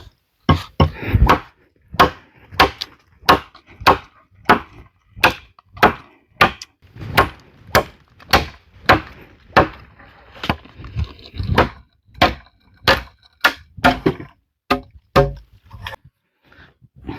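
Wood being chopped with a bladed tool: a long run of sharp blows, about two a second at a slightly uneven pace.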